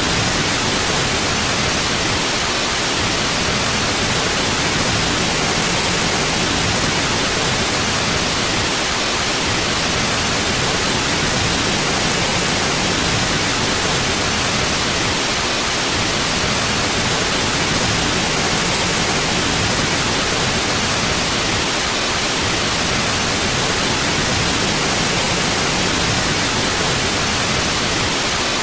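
Steady white noise: an even, unchanging hiss with no breaks or variation.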